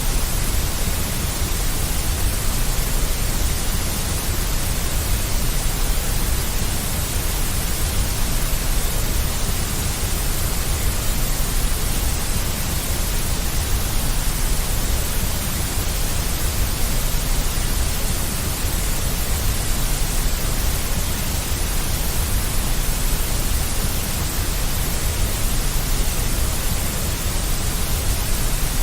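Steady, unchanging synthetic noise, a deep white noise for soothing a baby, an even hiss with a strong low rumble underneath.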